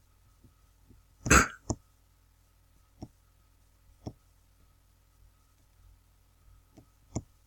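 A short throat clearing about a second in, then a few isolated sharp clicks spaced a second or more apart, like a computer mouse being clicked through pictures.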